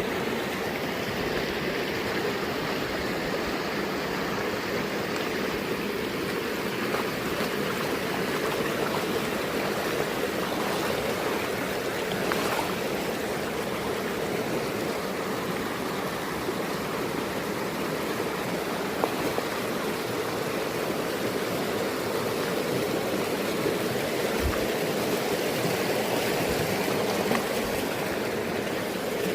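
Mountain stream running: a steady rush of flowing water.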